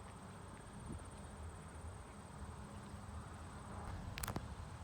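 Faint outdoor ambience: a low rumble with a thin, high, steady insect trill above it, and a couple of brief clicks a little after four seconds in.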